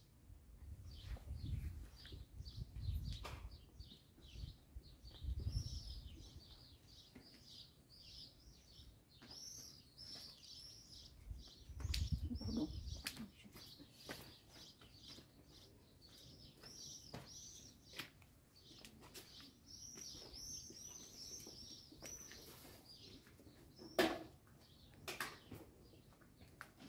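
Small birds chirping continually in quick short notes, with a few low rumbling swells and a sharp knock near the end.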